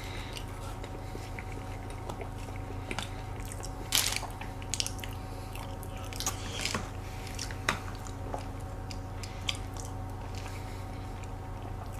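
Close-miked eating: soft chewing of cake, with scattered sharp clicks of a spoon and fork against plastic dessert cups, over a steady low hum.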